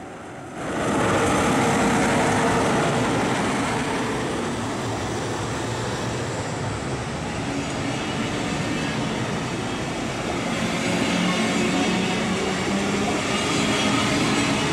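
DB class 111 electric locomotive and its double-deck coaches passing at speed: steady wheel-on-rail rolling noise that sets in about half a second in and carries on as the coaches go by.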